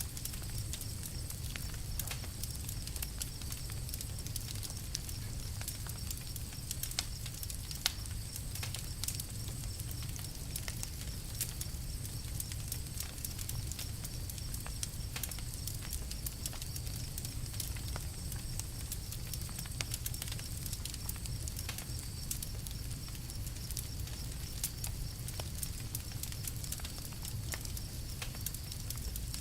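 Campfire crackling: frequent small sharp pops and snaps over a steady low rumble.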